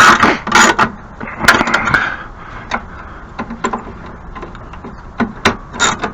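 Irregular metal clinks, knocks and scrapes of tools and parts being handled while working on a snow thrower's skid plates, busiest in the first couple of seconds, then sparse ticks and taps.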